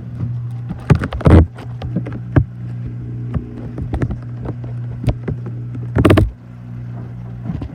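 Washing machine running with a steady low hum, broken by irregular knocks and clunks, the loudest two heavy thuds about a second in and again about six seconds in.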